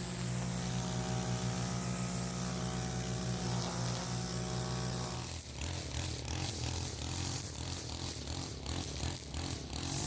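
Small gas engine of a handheld lawn tool running steadily at high speed, then dropping about five seconds in to a lower, rougher, uneven running sound.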